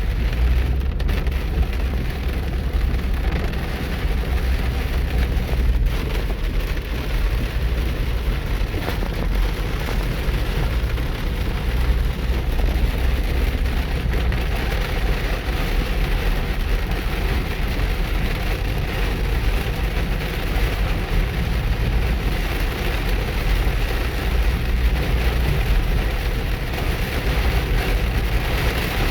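Heavy rain pelting a car, a dense steady hiss, over the car's steady low rumble.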